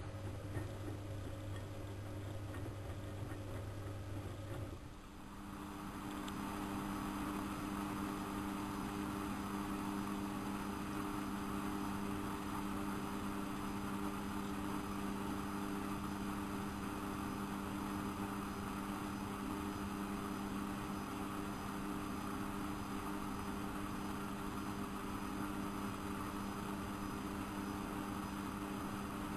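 Siemens Siwamat 6143 washing machine running: a low steady hum for the first few seconds stops about five seconds in, and its brushed drum motor then starts and runs at a steady speed with a constant whirring whine.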